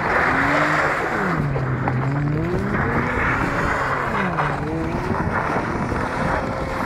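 Estate car's engine revving up and down as it drifts on snow-covered ice, its pitch rising and falling repeatedly. Two loud bursts of hiss, in the first second or so and again about three seconds in, come with the wheels spinning and throwing snow.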